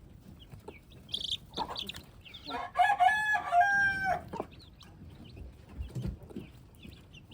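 Chickens clucking with short high calls, and a rooster crowing once about three seconds in, its call held in two drawn-out parts.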